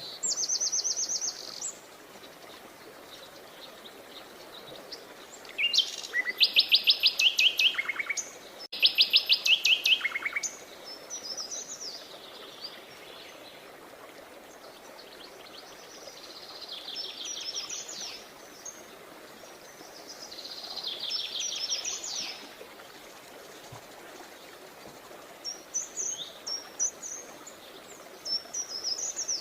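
Songbirds singing: two loud, rapid trills of quickly repeated notes about six and nine seconds in, each ending in a few lower notes. Fainter trills and high chirps follow, over a steady background hiss.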